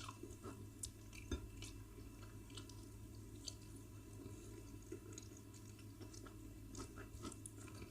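Faint, scattered eating sounds: chewing and soft wet squishes of wheat fufu and egusi soup, with small clicks here and there.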